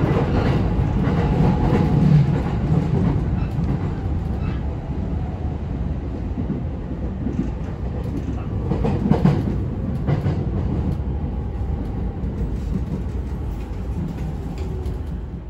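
Sobu Line local electric commuter train heard from inside the car: a steady rumble of wheels on rail, with a few louder clacks about two seconds in and again around nine seconds. The rumble eases gradually as the train runs slowly along the station platform.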